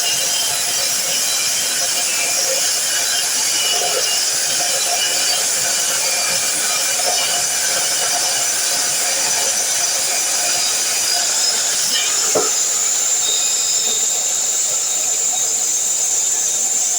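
DeWalt miter saw running and cutting, a steady high-pitched whine with hiss.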